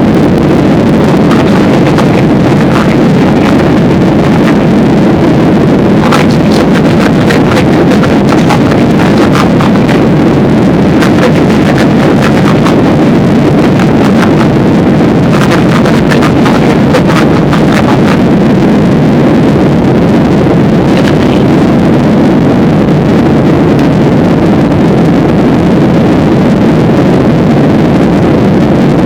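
Loud, steady roar of a passenger airliner's engines and rushing air heard inside the cabin during the takeoff climb, overloading the microphone. Patches of crackle come and go in the middle.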